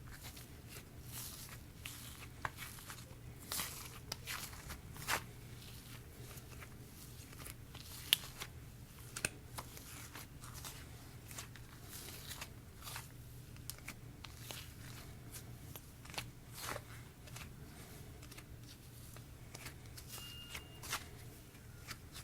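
Hands squishing and stretching a sticky cake-batter slime with sprinkles mixed in, giving a string of irregular small crackles, clicks and squelches.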